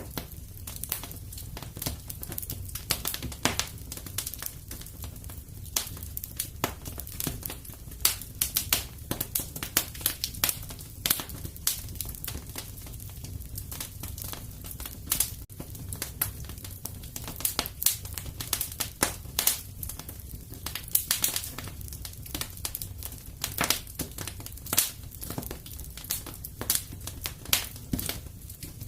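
Wood fire in a fireplace crackling, with frequent irregular sharp pops and snaps over a low steady rumble of the flames.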